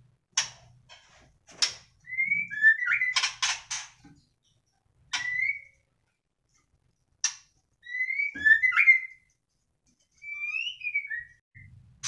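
White-rumped shama (murai batu) calling: short whistled notes that slide up and down, in four brief clusters, between sharp dry clicks.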